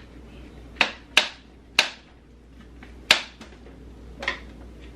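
Five sharp clacks of a hard utensil knocking against a pan, spaced irregularly from under half a second to over a second apart.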